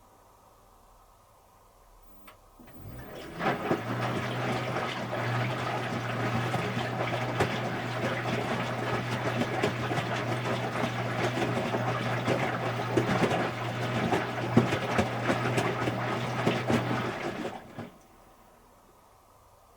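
Electrolux Wascator W355H commercial washing machine running water through: a loud rush of water over a steady low hum. It starts about three seconds in, runs for about fourteen seconds, and stops abruptly.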